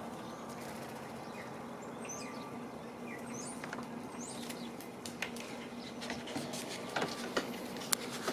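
Outdoor ambience at a bird feeder: small birds chirping faintly now and then, with a few sharp taps in the second half and a steady low hum underneath.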